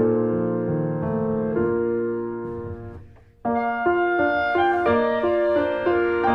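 Background piano music with held notes, fading out about halfway through, then starting again abruptly a moment later.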